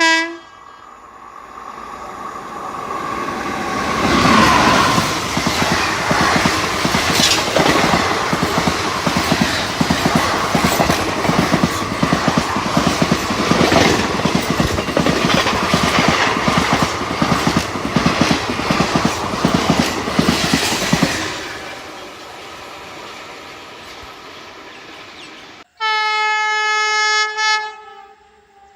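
A train passes at speed, its wheels clattering rhythmically over the rail joints for some seventeen seconds before the noise fades away. Near the end a locomotive horn sounds one long blast, with a short horn note right at the start.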